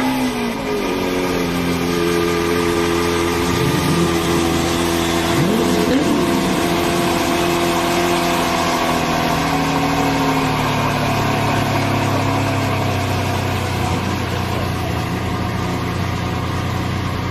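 Lamborghini Veneno's V12 engine running loud: revs fall back from a sharp rise at the very start, two short throttle blips about three and a half and six seconds in, then a steady idle.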